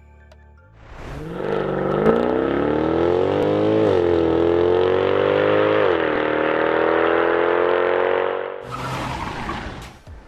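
Mercedes-Benz C63 AMG's 6.2-litre V8 accelerating hard, its engine note rising through the gears with two quick upshifts where the pitch drops, about four and six seconds in. Near the end the engine note gives way to a rougher rushing noise.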